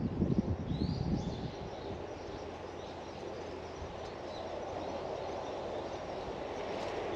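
Outdoor garden ambience with a few short bird chirps, uneven low rumbling in the first second or so, and a steady rumble that grows louder toward the end.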